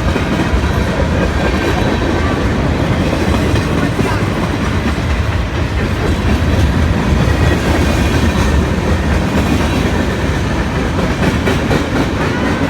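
CSX mixed freight train rolling past at close range: a loud, steady noise of the train's cars and wheels on the rails, not letting up.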